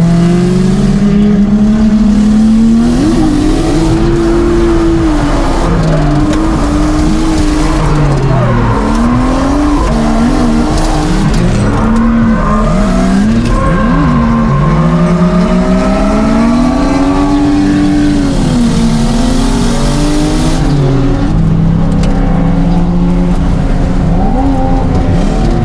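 Turbocharged drift car's engine revving hard and falling off again and again through a tandem drift run, heard from inside the cabin, with tyres squealing at times.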